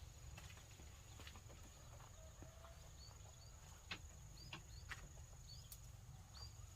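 Faint outdoor rural background: several short, high chirps from small birds or chicks, mostly in the second half, over a steady thin insect drone and a low hum, with a few light clicks.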